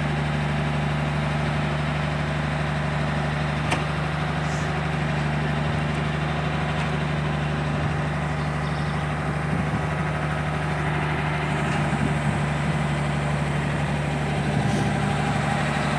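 A motor running steadily with a constant hum, with a faint click or two.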